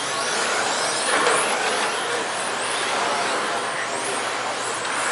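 A pack of 1:10 scale electric touring cars with 17.5-turn boosted brushless motors running around the track. The motors whine high up, rising and falling as the cars speed up and slow, over a steady hiss of tyres and drivetrains.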